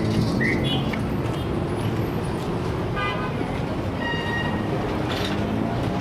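Heavy city traffic: a steady rumble of vehicle engines and tyres, with short car horn toots, one about three seconds in and another about four seconds in.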